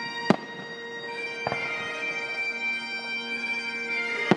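Fireworks shells bursting over music of long held notes on a steady drone: three bangs, a sharp one about a third of a second in, a softer one about a second and a half in, and another sharp one near the end.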